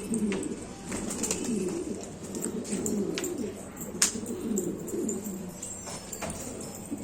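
Several domestic pigeons cooing together in low, overlapping rolling calls, with a few sharp clicks scattered through.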